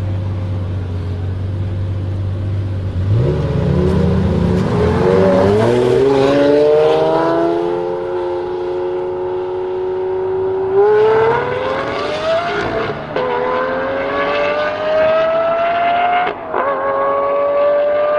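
Mercedes-AMG GT S twin-turbo V8 with an ASG exhaust, idling steadily, then accelerating about three seconds in. The engine note climbs in pitch through the gears, dropping sharply at an upshift about 13 seconds in and again about 16 seconds in before rising once more.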